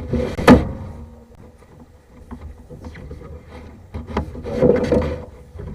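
Irregular knocks and rubbing as a sewer camera's push cable is fed along a drain pipe, over a steady low hum.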